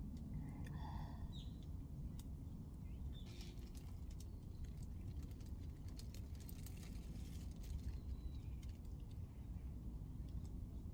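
Faint outdoor ambience with a steady low rumble, a few short bird chirps about a second in, and scattered faint crackles.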